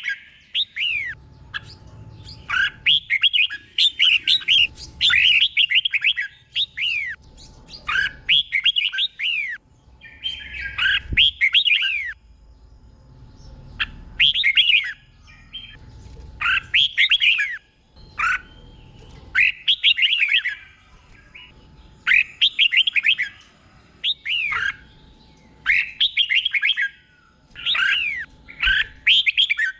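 Red-whiskered bulbul singing: short phrases of quick, clear whistled notes that sweep downward, repeated every second or two with brief pauses between them.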